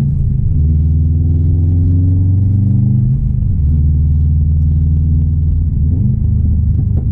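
2016 Subaru WRX STI's turbocharged 2.5-litre flat-four engine pulling under acceleration. Its rumbling note rises in pitch, drops at a gear change about three seconds in, then climbs again.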